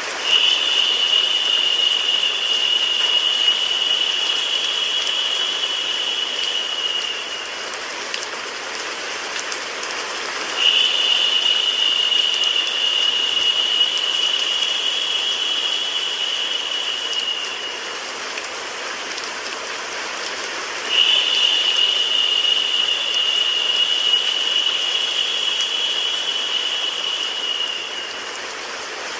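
Steady rain-sound and white-noise hiss. A louder, high-pitched hiss comes in suddenly three times, about ten seconds apart, each time lasting about seven seconds before fading out.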